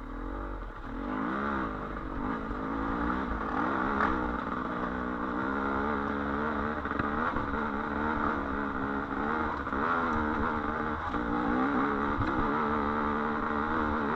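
Trail bike engine labouring up a hill climb, the revs rising and sagging again and again under heavy load.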